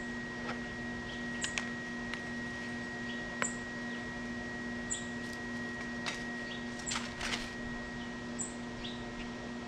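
A steady machine hum of a few fixed tones, with faint scattered clicks and short high-pitched chirps about every second and a half.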